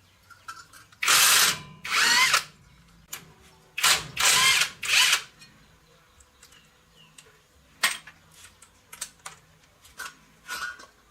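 A handheld power tool run in four short bursts, each about half a second to a second long, in the first five seconds, its motor whine wavering in pitch. Scattered light clicks and taps follow.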